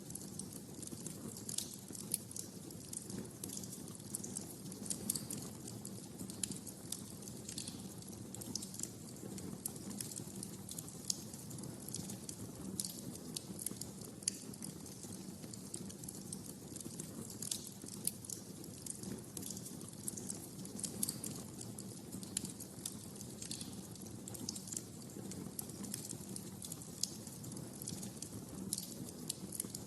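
Wood fire burning in a fireplace: a steady low rush of flame with irregular sharp crackles and pops, several a second, a few louder snaps among them.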